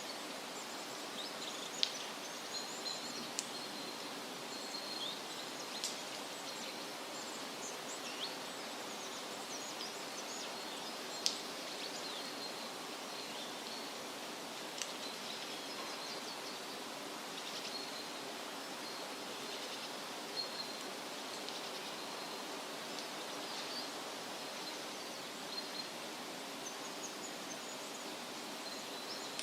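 Wind rustling through leafy trees in a steady hiss, with small birds chirping in short, high calls throughout and a few sharper chips standing out.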